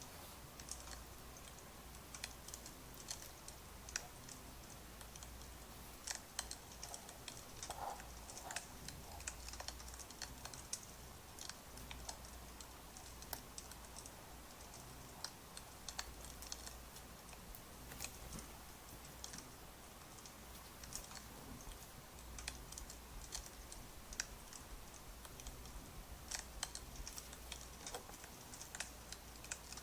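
Firewood burning, with irregular small crackles and pops over a low steady hum.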